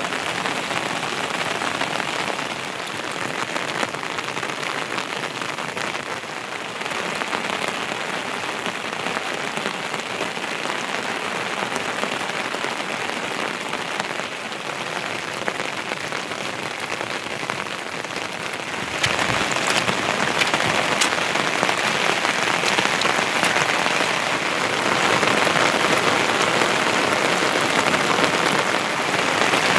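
Heavy monsoon rain falling steadily, a dense even hiss of drops that gets suddenly louder about two-thirds of the way through.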